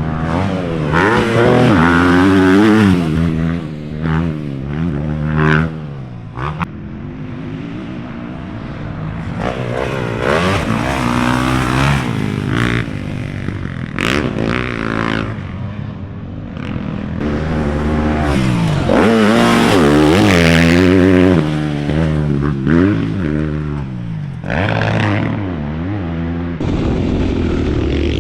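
Dirt bike engines revving hard and easing off again and again, rising and falling in pitch as they ride past.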